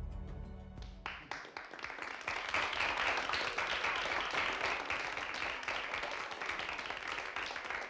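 Background music stops about a second in, and applause follows: many hands clapping.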